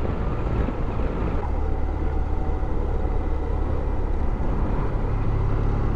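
Motorcycle running steadily at cruising speed, with the engine drone and wind and road noise heard from the rider's helmet microphone.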